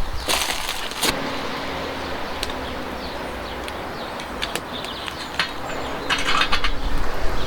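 Small fire of scrap wood crackling, with scattered sharp snaps over a steady hiss; louder clattering bursts just after the start and again about six seconds in.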